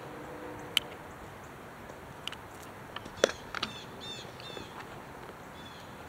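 Outdoor ambience with a small songbird's quick run of short chirps about four seconds in, and several sharp clicks, the loudest a little past three seconds. A low hum fades out about a second in.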